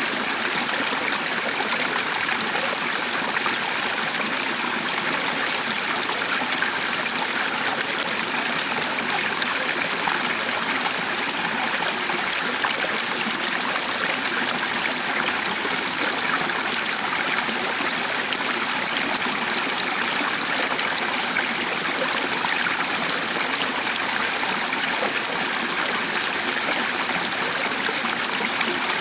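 A stream flowing steadily, an even, unbroken rush and trickle of water.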